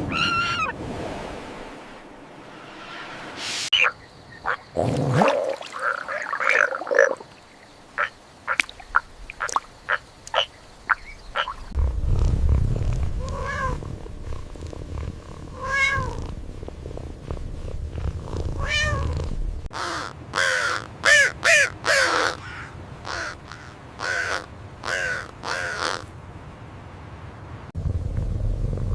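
Domestic cat meowing over and over in short calls, with a low rumble underneath in the second half.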